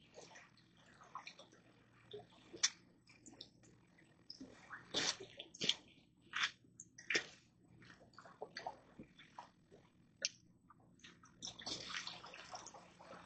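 Irregular water splashing and dripping, made of scattered sharp splashes and ticks, with a denser run of splashing near the end.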